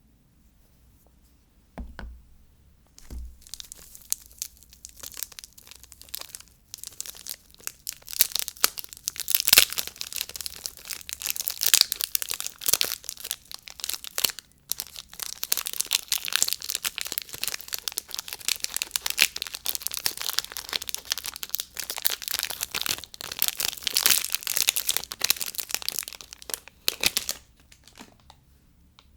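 Soap packaging being torn open and crinkled by hand: a couple of soft knocks, then a long stretch of crackling, rustling tearing that pauses briefly midway and stops a little before the end.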